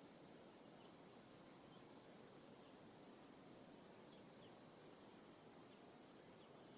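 Near silence: faint outdoor background hiss with faint, short high chirps of small birds scattered throughout.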